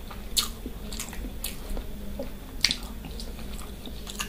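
A person eating close to the microphone: wet chewing and mouth smacks, with a few short sharp clicks, the loudest about half a second and two and a half seconds in.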